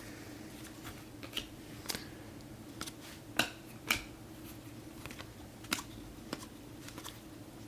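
Topps Chrome trading cards being handled and flipped through one at a time: a scattered series of light clicks and snaps as cards slide off the stack, the two loudest about three and a half and four seconds in, over a faint steady hum.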